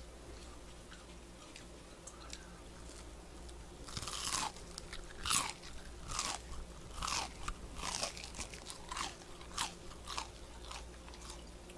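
Chewing a bite of butter-toasted gijeongtteok, a Korean fermented rice cake with a crisp toasted crust. The first few seconds are quiet, then from about four seconds in comes a run of crunchy chews about one a second.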